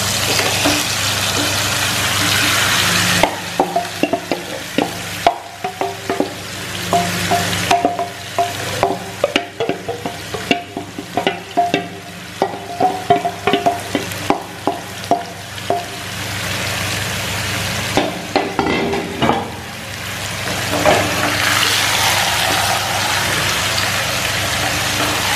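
Marinated chicken, potatoes and onions sizzling in hot oil in a kadai, with a spatula scraping and tapping against the pan as the masala is stirred through. The sizzle is loudest at the start and again near the end. In between come many quick spatula strokes.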